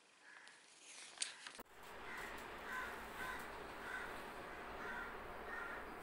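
A sharp click about a second in. Then, after an abrupt change to a louder background hiss, short bird calls repeat about twice a second.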